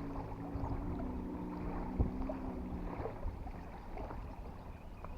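A steady low engine hum that fades out about three seconds in, over wind rumbling on the microphone and a few faint knocks.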